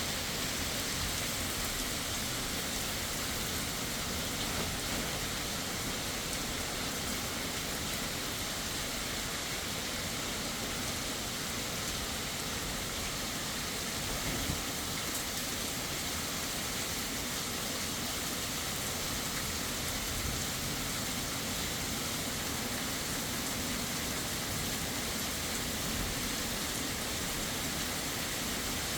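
Heavy rain falling steadily, a dense even hiss with no thunder heard.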